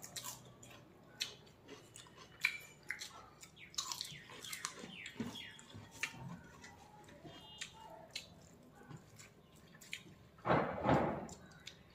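Chewing and wet mouth smacks from eating rice with chicken liver curry, with scattered small clicks as fingers mix the rice on the plate. A louder, rough sound of under a second comes near the end.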